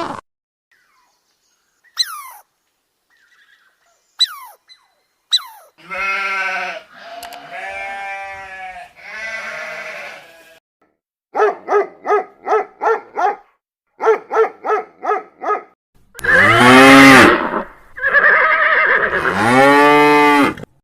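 Animal bleating: several long pitched calls and two runs of quick stuttering bleats, the loudest near the end. Three short, high, falling whistle-like calls come first.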